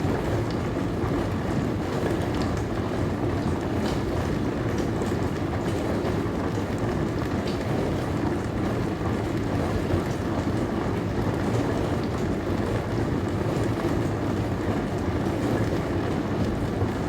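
Dishwasher running steadily mid-cycle: an even hum and water rush from inside the machine, with a few faint ticks.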